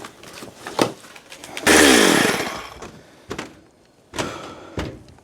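Chainsaw revved once about two seconds in, its pitch falling as it winds back down, with scattered knocks and clunks around it.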